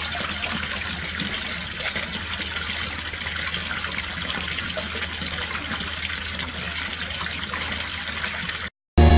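Steady running water with a low hum underneath, cutting off shortly before the end.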